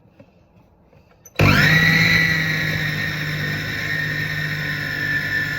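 Food processor motor switched on about a second and a half in, starting abruptly and then running steadily with a high whine as it blends cake mixture.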